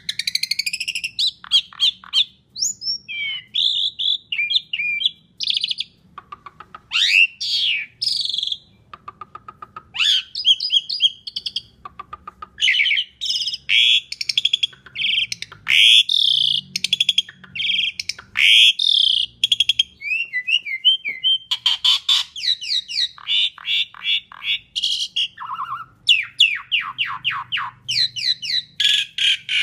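Asian pied starling (jalak suren) singing a long, varied song almost without pause: whistled glides, fast rattling trills and harsh chattering runs.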